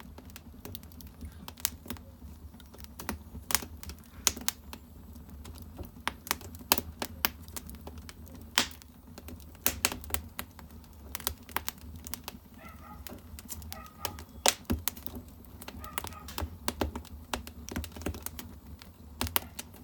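Split firewood burning in a Korean agungi (wood-fired ondol furnace): irregular sharp crackles and pops, several a second, over a low steady rumble.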